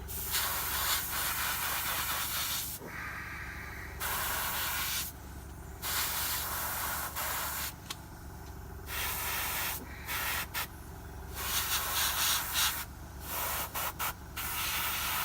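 Airbrush spraying thin paint in short on-off bursts of one to two seconds, each a steady hiss of air that stops abruptly, over a steady low hum from the compressor.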